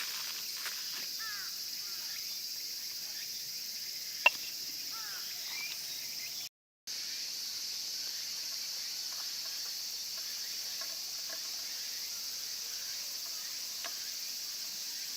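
Outdoor ambience: a steady, high-pitched chorus of insects with scattered short bird chirps. A single sharp click about four seconds in, and a moment of dead silence a little later.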